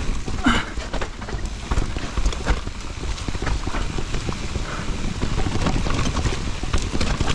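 Mountain bike rattling and clattering in quick irregular knocks on a rough, wet trail descent, over a steady low rumble.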